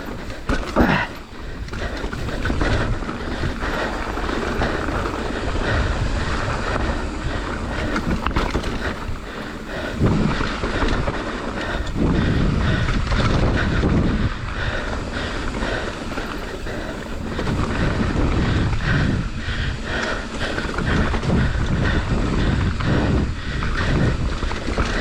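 Mountain bike descending a dirt trail at speed: wind buffeting the microphone, tyres rolling over dirt and rock, and the bike rattling with many small knocks over bumps.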